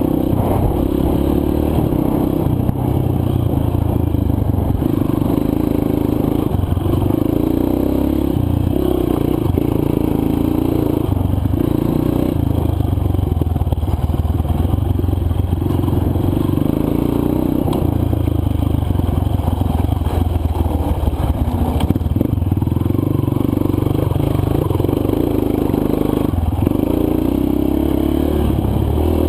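Honda CRF230 dirt bike's single-cylinder four-stroke engine running on a trail ride, its revs rising and falling in stretches of a few seconds with the throttle and gear changes, with rattling and scraping from the bike and the rough ground.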